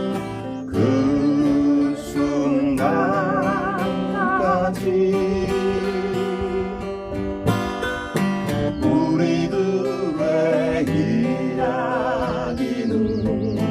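Acoustic guitar and ukulele strumming chords together, with a voice singing over them, holding wavering notes with vibrato in places.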